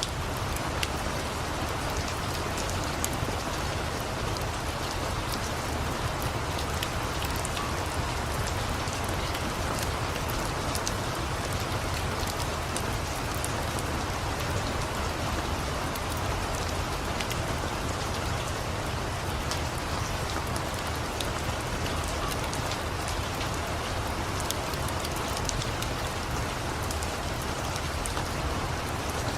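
Steady rain with a scattered, irregular crackle of a wood fire mixed in.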